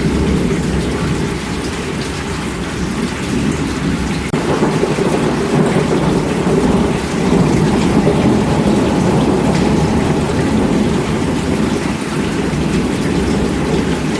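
Steady heavy rainfall with a deep rumble of thunder underneath, swelling louder about four seconds in and rolling on.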